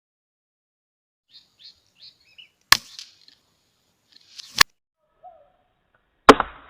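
Three sharp air rifle shots, the second about two seconds after the first and the third under two seconds after that. The last is followed by a short rougher noise. A few faint high chirps come before the first shot.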